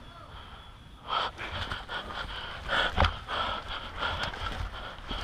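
A person breathing hard and fast close to the microphone, in a series of breathy puffs, with a short knock about three seconds in.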